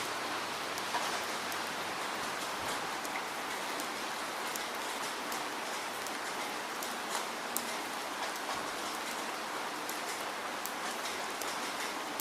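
Steady rainfall, with scattered individual drops ticking sharply against a surface over the even hiss of the rain.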